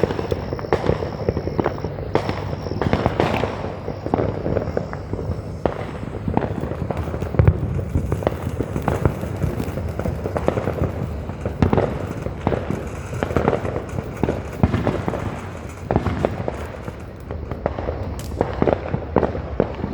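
Fireworks going off: a continuous, irregular run of overlapping pops and bangs with no let-up.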